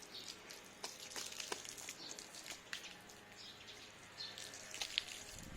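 Small birds chirping in short, scattered high calls, with light ticks and taps mixed in.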